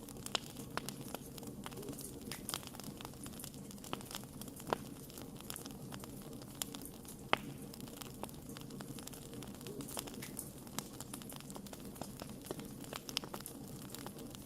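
Wood fire burning with a steady low rumble and irregular crackles and sharp pops, a few louder snaps standing out.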